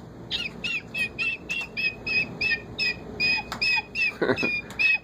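Pet parrot chirping over and over, short high chirps about four a second, with a lower call breaking in about four seconds in.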